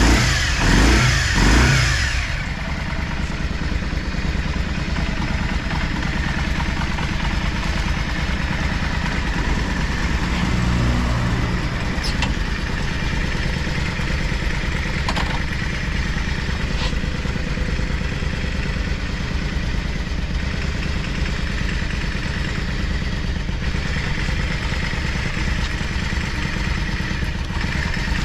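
Yamaha Drag Star 400 Classic's air-cooled V-twin revved in about three quick throttle blips, then settling to a steady idle with a brief swell near the middle. The seller says it runs smoothly with no abnormal noise.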